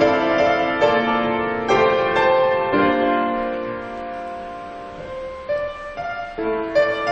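Piano playing a slow instrumental piece: chords struck about once a second, one of them left to ring and fade in the middle before the playing picks up again.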